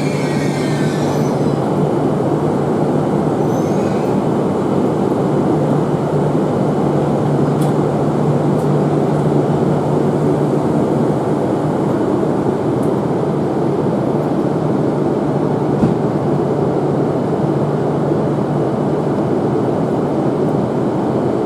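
Akita Shinkansen E6 series train coming to a halt at the platform: a high wheel and brake squeal dies away in the first second, then a steady rumble and low hum from the train.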